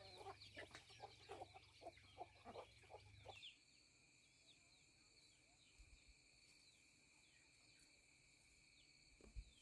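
Faint chickens clucking in short repeated calls for the first three seconds or so. After that only a faint steady high tone remains, with a soft thump near the end.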